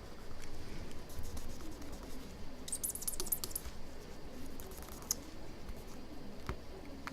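Light scraping and rubbing at leftover glue on an iPhone 6 Plus screen during a glass repair, with scattered small clicks of the tool. There is a short run of quick, high scratchy strokes about three seconds in.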